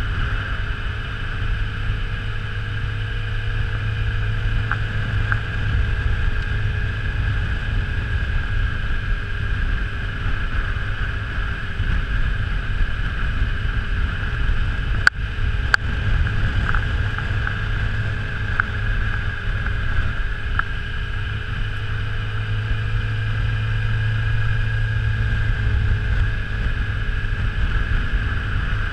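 Yamaha FZ6R's inline-four engine running steadily under way, with wind and road noise over the microphone. A sharp click about halfway through.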